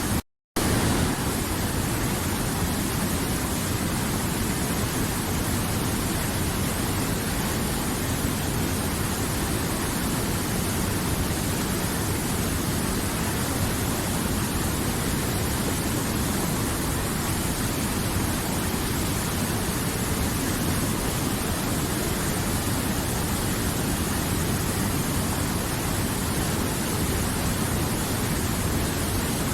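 River water flowing in a steady, even rush. The sound cuts out completely for a split second just after the start.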